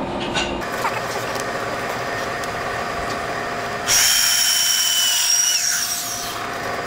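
Power drill running a porcelain tile drill bit into hard tile. About four seconds in, a loud, high-pitched screech of the bit cutting joins the steady motor for about two seconds, then eases off.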